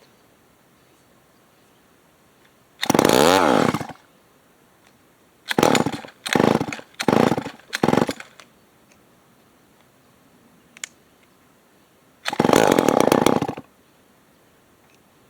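Remington SL9 chainsaw's two-stroke engine firing in short bursts that die away each time. It catches and revs up and down for about a second, then gives four quick bursts in a row, then runs again for about a second and a half before stopping.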